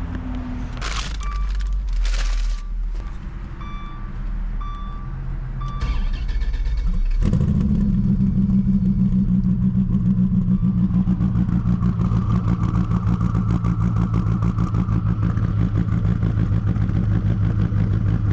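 Two thumps and a handful of short electronic beeps. About seven seconds in, the twin-turbo Dodge Viper's V10 starts and settles into a steady, throbbing idle.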